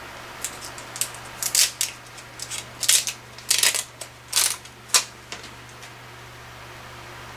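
Paper craft materials being handled at a table: a string of short, crisp rustles and clicks, as an adhesive embellishment sheet and the card are picked at and pressed. The sounds stop a little after five seconds.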